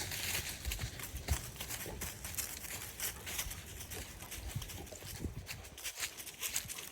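Footsteps on the ground: an uneven run of crunching steps with small clicks and rustles.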